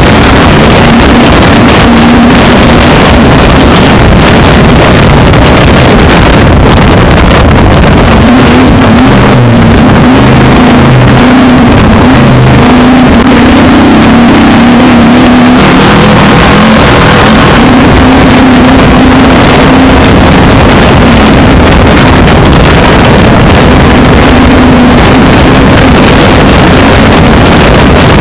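Built 600-horsepower race truck's engine running hard, its note wavering up and down, very loud and distorted over a dense rushing noise.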